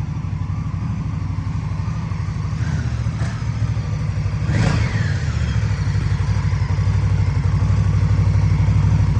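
2024 Indian Scout's V-twin engine idling with an even, low pulsing beat. There is a brief swell about halfway through, and it runs a little louder after that.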